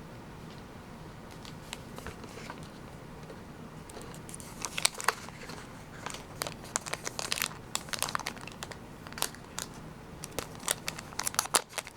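Plastic and foil packaging from Pokémon card mini tins and booster packs crinkling and tearing as it is opened by hand. It is faint for the first few seconds, then dense crackling starts about four seconds in.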